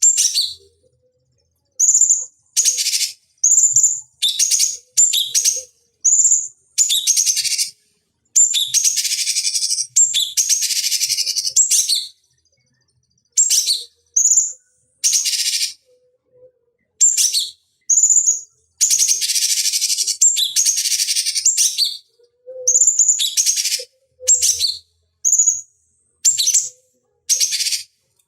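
Cucak cungkok songbird calling: a string of short, high, sharp chirps broken by two longer runs of rapid chattering.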